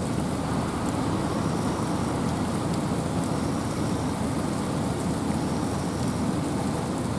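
Steady rain and wind in a forest: a dense, even rushing noise heaviest in the low range, with scattered drip ticks.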